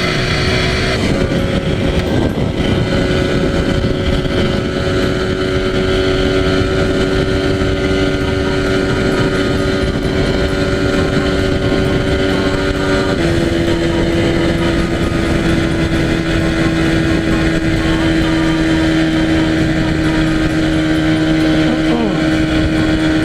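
Yamaha TZR250 (1KT) two-stroke parallel-twin engine running steadily at highway speed, with wind and road noise rushing over the microphone. The engine note drops about a second in and settles slightly lower again about 13 seconds in.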